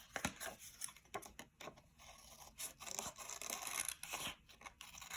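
Scissors cutting through paper: scattered snips and paper rustle, then a longer scraping stretch through the middle.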